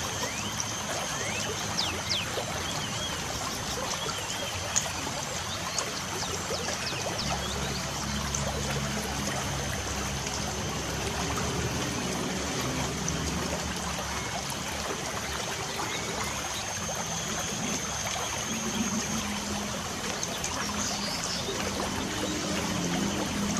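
Light rain falling steadily, a continuous patter, with birds chirping in short, thin calls that are most frequent in the first half.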